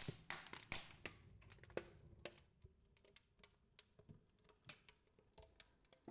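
Faint, irregular crackling and snapping of a wood fire burning in a brick fireplace, busiest in the first couple of seconds and then thinning to scattered pops.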